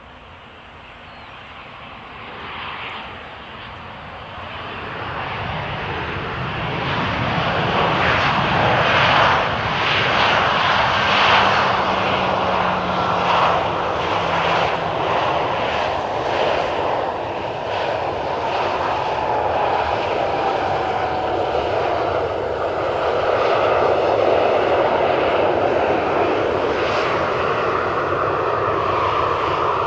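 Loud, steady roar of a large engine or vehicle that swells up over the first eight seconds or so and then holds, with a faint whine sliding down in pitch in the middle.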